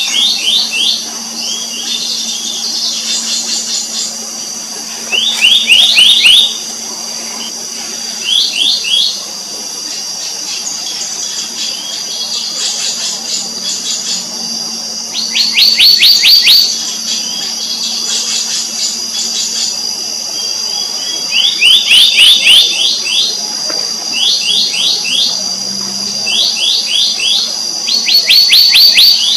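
Black-naped monarchs calling: about ten short runs of rapid, ringing repeated notes, each run roughly a second long, coming every couple of seconds. Under them runs a steady high insect drone.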